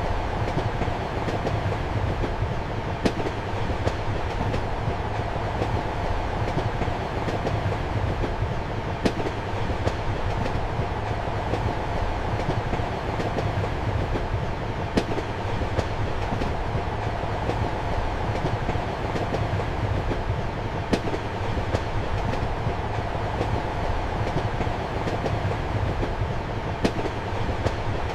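Inside a moving passenger train compartment: the steady rumble and low hum of the rolling carriage, with a sharp click of the wheels over rail joints every few seconds.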